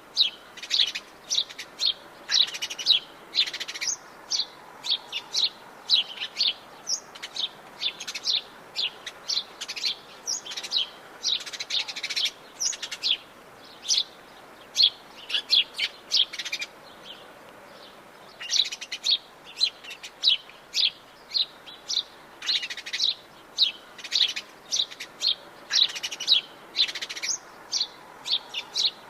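Forest birds chirping: quick, high, short calls, several a second, from more than one bird, with a lull of about a second a little past the halfway point.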